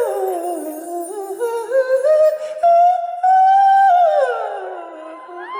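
Male singer's wordless vocal ad-lib at the close of a soul ballad: one long melodic line that slides and bends between held notes, with little accompaniment under it.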